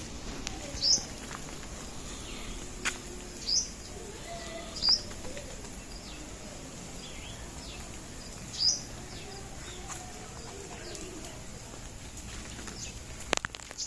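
Birds calling: short, sharp, high chirps every few seconds over a steady background hiss, with a couple of sharp clicks.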